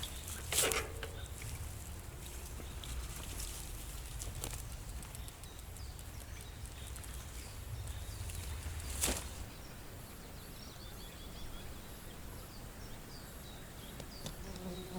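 Wind buffeting the microphone as a low, steady rumble that eases after about nine seconds. Sharp knocks come twice, near the start and about nine seconds in. Faint high bird chirps sound in the second half.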